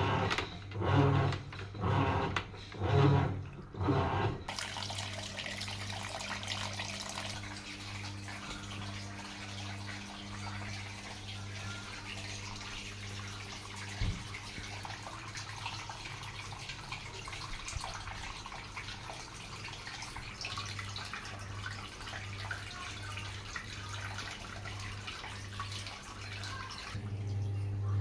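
Sharp washing machine taking in water: a steady rush of water into the tub that starts about four seconds in and stops shortly before the end. The machine pulses rhythmically, about once a second, before the water starts and again after it stops.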